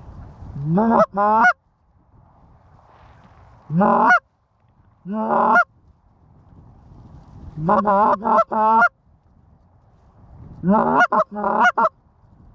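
Loud Canada goose honks, about ten of them in short groups of one to four, each note starting low and breaking sharply upward.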